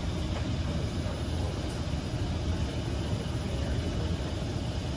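Steady low rumble with a hiss over it from a Kawasaki C151 MRT train standing at a station platform with its doors open.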